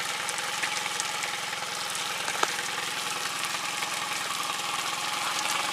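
Yamaha 25 hp four-stroke outboard idling steadily, with a hiss over it and one short click about two and a half seconds in.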